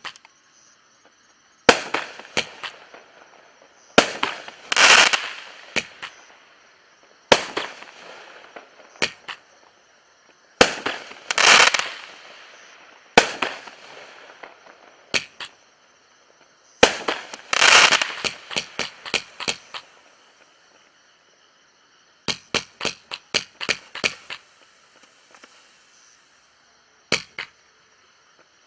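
42-shot consumer fireworks cake firing: sharp bangs come in quick runs of several shots, some followed by crackling, with short pauses between volleys.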